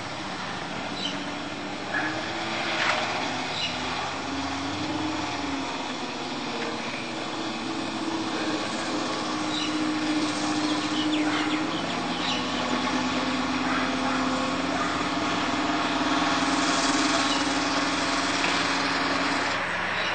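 Corvette C3's V8 engine running steadily, its pitch shifting a little now and then and getting gradually louder toward the end.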